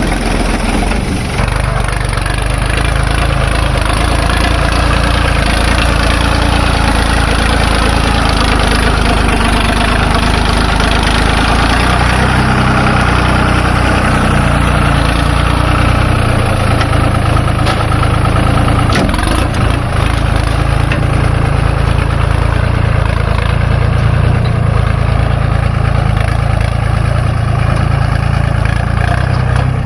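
Heavy-equipment diesel engine running steadily and loudly, its pitch shifting slightly now and then.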